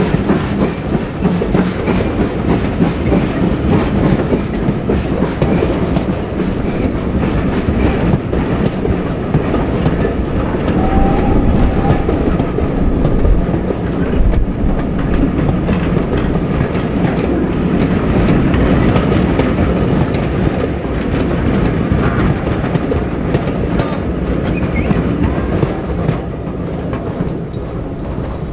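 Steam-hauled heritage train running by, its carriage wheels clattering steadily over the rail joints, growing a little quieter near the end.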